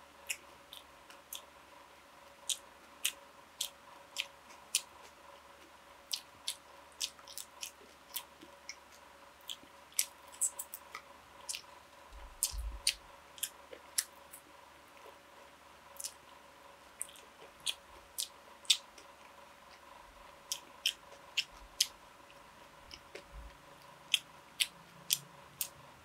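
Close-miked eating: a person chewing and biting food, heard as irregular sharp, crisp clicks and crunches every half second or so, over a faint steady hum.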